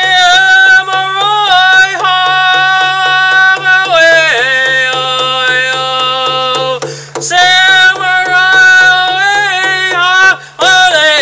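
A man singing a Native American-style spiritual chant in wordless vocables, in long held notes that slide between pitches, over a steady percussion beat. There is a short break in the singing about seven seconds in.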